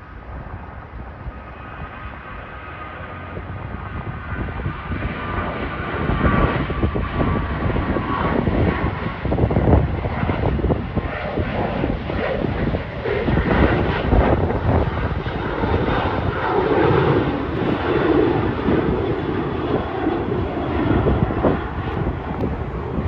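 Jet airliner's engines at takeoff power as it departs: it grows louder over the first several seconds, then stays loud, a high whine over a deep, rough noise, and drops away sharply at the very end.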